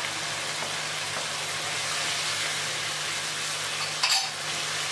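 Chicken curry with freshly added crushed peas sizzling steadily as it fries in a karahi, stirred with a wooden spatula. A short scrape or knock of the spatula against the pan about four seconds in.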